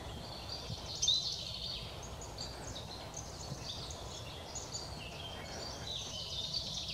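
Small songbirds chirping and twittering together in high, quick notes, with one louder note about a second in.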